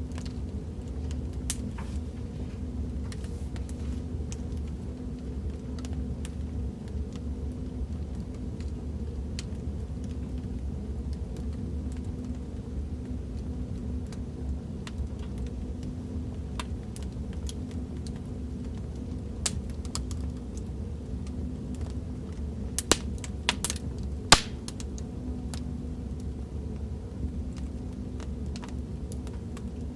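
Fireplace crackling sound effect: a steady low rumble of the fire with scattered sharp pops and crackles, a few louder pops close together in the last third.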